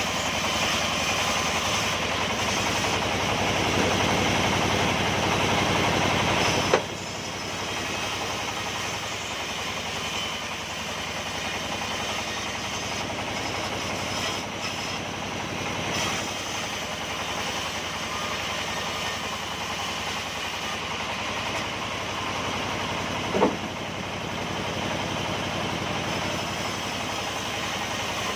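Engine-driven sawmill machinery running steadily. It is louder for the first several seconds, then settles to a lower level after a sharp click, with one more brief knock near the end.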